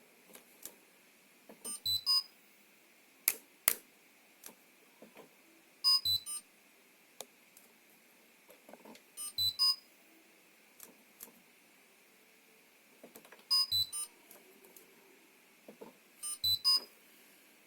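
Electronic beeps from the washing-machine control board on the test rig: short clusters of high beeps repeating about every three and a half seconds, five times. Two sharp clicks come a little after three seconds in.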